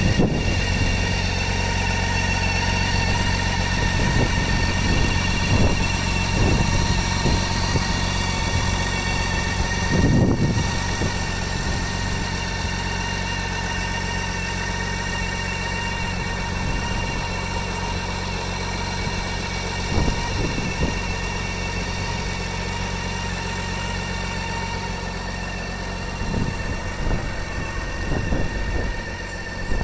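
Motorcycle engine idling steadily, with a few brief louder moments.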